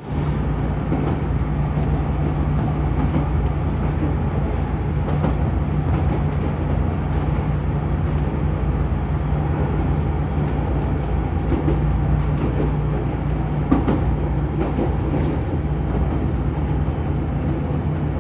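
Steady running noise heard inside a moving electric commuter train, a former Nagoya subway car: an even rumble with a constant low hum from the motors and a few light clicks of the wheels over rail joints.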